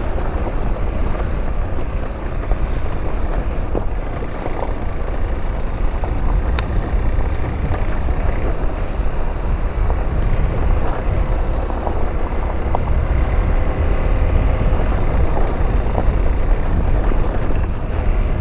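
Motorcycle engine running steadily as the bike rides along, with a continuous low rumble.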